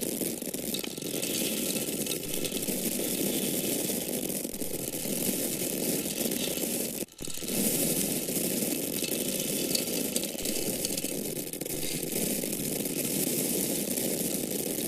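Dried corn kernels pouring in a steady stream, a dense run of tiny clicks as the grains land. The pour stops for a split second about halfway through, then carries on.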